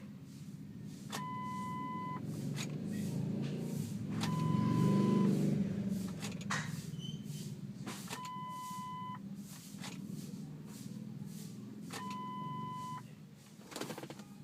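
A vehicle warning chime sounding four times, each a one-second beep, every three to four seconds, over a steady low hum that swells about five seconds in, with scattered clicks. No engine cranking is heard, fitting the Ford Explorer Sport Trac's no-start, no-crank condition.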